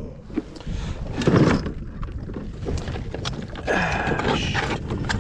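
Crabs being handled and dropped back into the water over the side of a kayak: scattered knocks and clicks, a louder splash about a second in and another splashy stretch near the end, over a steady rumble of wind on the microphone.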